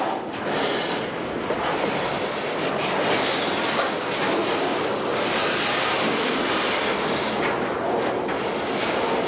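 Piggyback freight train of highway trailers on flatcars rolling past close by: a steady rumble and rattle from the cars, with the steel wheels clicking over rail joints now and then.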